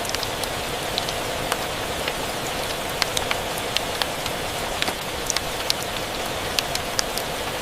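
Steady rain hiss with a crackling wood fire: irregular sharp pops and crackles a few times a second over the even wash of the rain.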